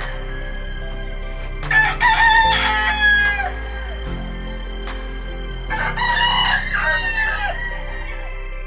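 Gamefowl rooster crowing twice, each crow about two seconds long and falling in pitch at the end, over steady background music.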